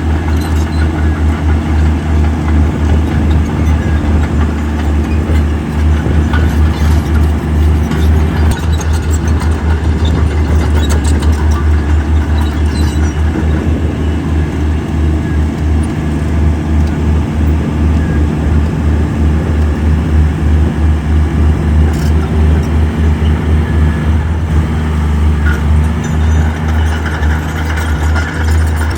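Heavy diesel engine of earthmoving equipment running steadily close by, with a loud, rapidly pulsing low drone.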